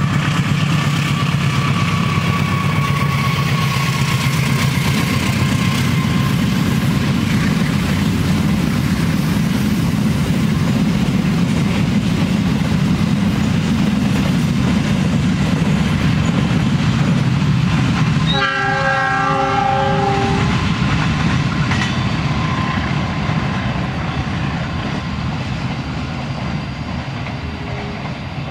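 GE CM20EMP (CC206) diesel-electric locomotive passing at speed with a steady engine drone, followed by the rolling clatter of its flat cars. About two-thirds of the way through, the receding locomotive gives one horn blast of about two seconds. After that the train sound fades away.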